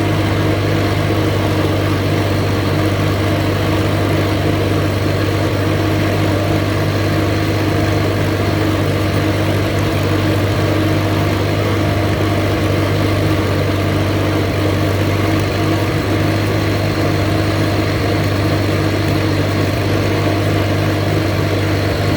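Allis-Chalmers C tractor's four-cylinder engine running steadily while mowing with its Woods mower deck, with no change in pitch or load.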